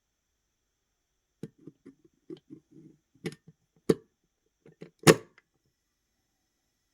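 A run of soft, irregular knocks and rubbing, like an object being handled, with two sharp clicks about four and five seconds in, the second the loudest.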